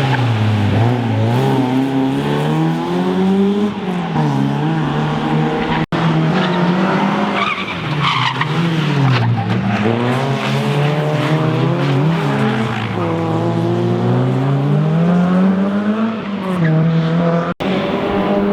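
Rally car engine at full effort, its pitch climbing and dropping back over and over as the driver accelerates, shifts and lifts through corners, with some tyre squeal. The sound cuts out for an instant twice.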